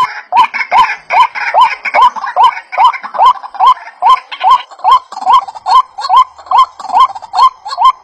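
A bird calling: a fast, very regular string of short clucking notes, each rising in pitch, about two and a half a second, starting abruptly.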